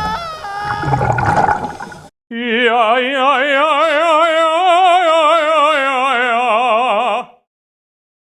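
About two seconds of music, then an operatic voice holding one long note with wide vibrato. The note rises slightly and sinks back over about five seconds, then stops abruptly.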